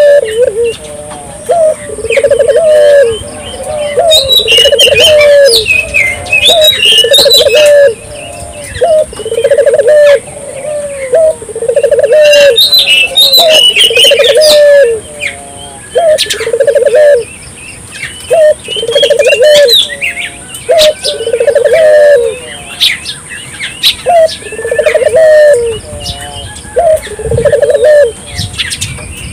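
Puter doves cooing over and over in rolling, low phrases, a new phrase every second or two, while other small birds chirp higher up. A steady high-pitched whine sits underneath.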